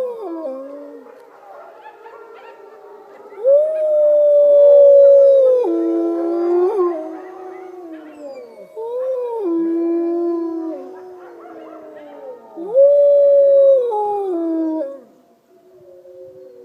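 Wolves howling together: three loud, long howls that hold their pitch and then drop at the end, with other, higher howls overlapping them.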